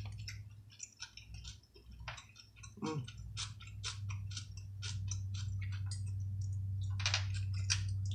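Close-up mouth sounds of a person eating: chewing with many short wet clicks and smacks, over a steady low hum that grows louder about halfway through.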